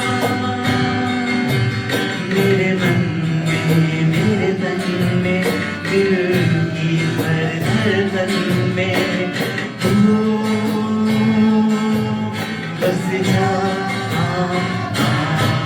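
Live worship band music with guitar over a steady drum beat, with some singing.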